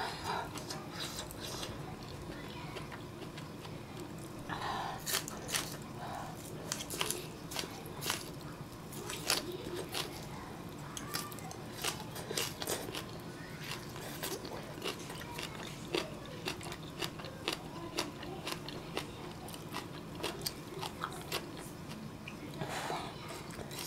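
A person chewing and biting food close to the microphone, here green onion kimchi and ramen noodles, with many short, wet clicks and smacks scattered throughout over a faint steady hum.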